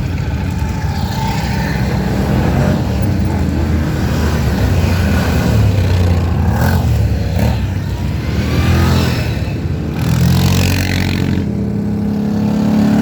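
A stream of motorcycles riding past in a parade, engines running in a continuous loud drone, with individual bikes revving and passing by.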